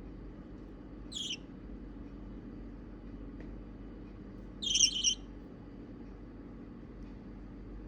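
Four-week-old budgerigar (budgie) chick chirping twice: a brief high call about a second in, then a longer, louder one near five seconds in.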